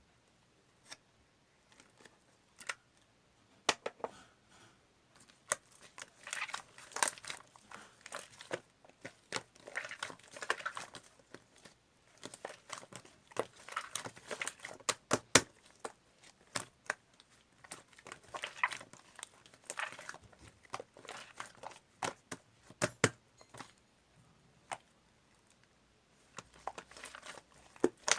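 Slime being squeezed, pressed and stretched by hand, giving irregular sharp popping clicks and bursts of crackly, crinkly squishing.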